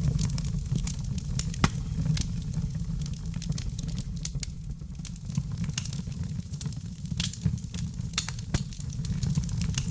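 Wood fire crackling: many small sharp pops and snaps over a steady low rumble, with one louder pop about a second and a half in.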